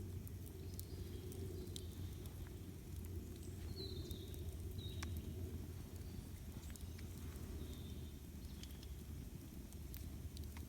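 Campfire crackling, with scattered sharp pops over a steady low rumble. A few short, high bird chirps come through in the middle.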